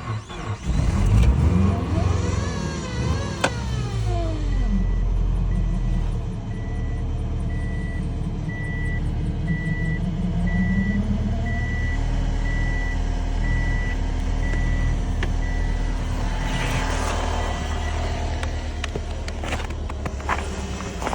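Subaru Forester 2.5 L flat-four engine running after a hard start in extreme cold, its revs rising and falling in the first few seconds and rising again about halfway through. A high beep repeats at an even pace, about once a second, through most of the middle.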